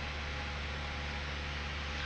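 Steady drone of the Mooney M20C's four-cylinder Lycoming piston engine and the rush of airflow, heard inside the cabin in cruise descent: an even hiss over a low, constant hum.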